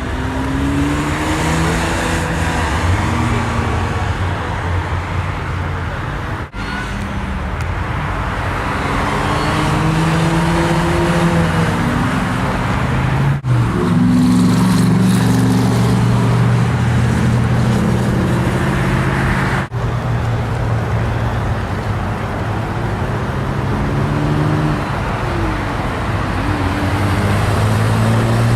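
Lamborghini Gallardo LP 560-4 Spyder's V10 engine running on the move, its pitch climbing and falling again and again with the throttle and gear changes. The sound drops out briefly three times.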